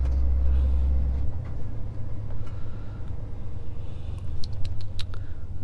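Scania S500 truck heard from inside the cab while driving: steady engine and road noise, with a strong low drone that drops away about a second in. A few sharp clicks come near the end.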